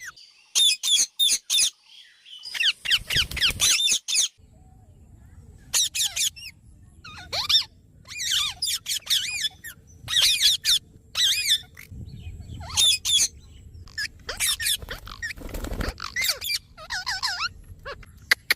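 Parrot giving a long run of short, high-pitched calls in quick clusters, some sliding up and down in pitch.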